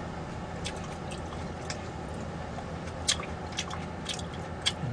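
Close-up eating sounds: chewing with scattered small wet clicks and smacks, several over a few seconds, over a steady low background hum.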